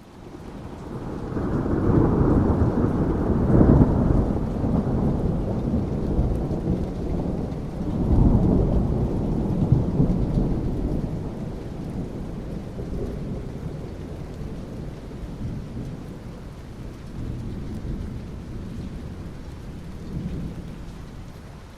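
Thunder rolling over steady rain. A deep rumble swells up over the first couple of seconds, a second roll follows about eight seconds in, and the rumble then slowly dies away under the rain.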